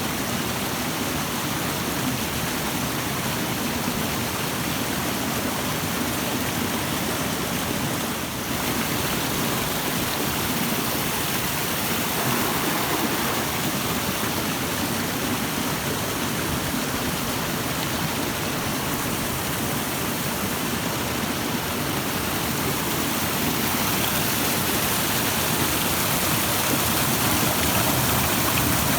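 A rushing stream: water flowing in a steady, even rush, with a brief dip about eight seconds in.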